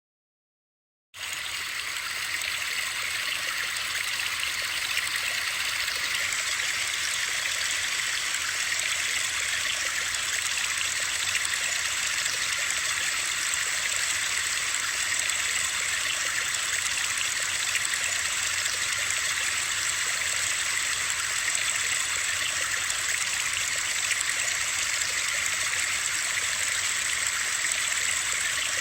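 Steady hiss of rushing water, strongest in the upper range, cutting in suddenly about a second in after silence and holding unchanged.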